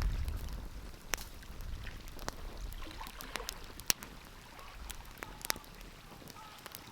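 Wood fire crackling, with scattered sharp pops and snaps, the loudest a little under four seconds in. A low rumble fades away during the first second.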